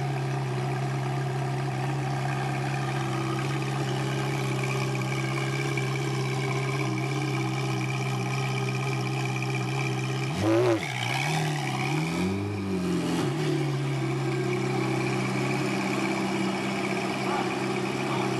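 Ferrari F430 Challenge car's flat-plane V8 idling steadily. About ten seconds in it gives one sharp throttle blip, then a few smaller blips, and settles back to idle.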